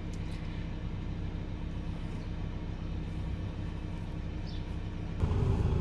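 Manual car's engine idling with a steady low hum; about five seconds in it suddenly gets louder.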